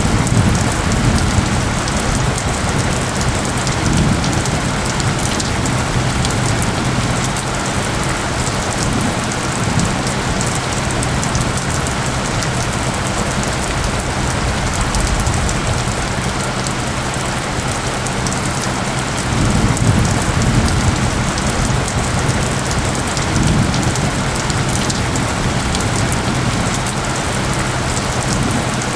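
Steady heavy rain falling on surfaces, with low rumbles swelling now and then, about a second in and again around twenty seconds in. Beneath it runs a low steady hum of isochronic tones.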